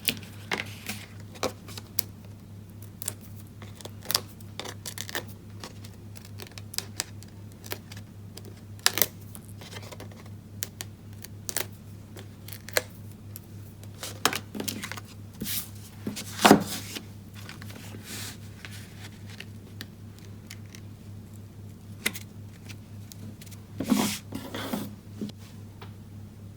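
Hands handling cardstock and papercraft pieces on a desk, pressing a popped-up panel onto a card: scattered light taps, clicks and paper rustles, with a sharper knock about sixteen seconds in.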